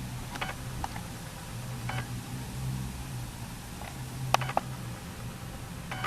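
Short bird chirps, about six scattered calls, the loudest two close together about four and a half seconds in, over a steady low hum.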